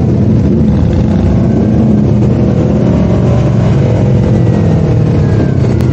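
Yamaha R3 motorcycle's parallel-twin engine running under way, its pitch rising and falling with the throttle over steady road and wind noise. It cuts off suddenly near the end.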